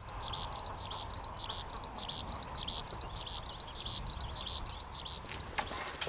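Small birds chirping: a rapid run of short, high chirps, about five a second, over steady low background noise. The chirping stops near the end.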